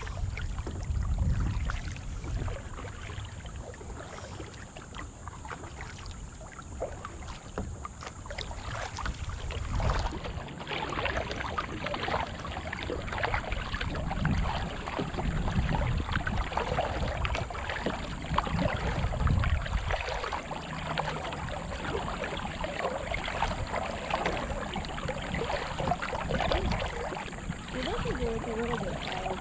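Kayak paddle strokes splashing and dripping in the water, with low rumbles of wind on the microphone now and then.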